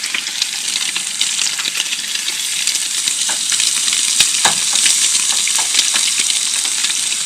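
Chunks of walleye frying in hot coconut oil: a loud, steady sizzle with scattered crackles and pops, which cuts off suddenly at the end.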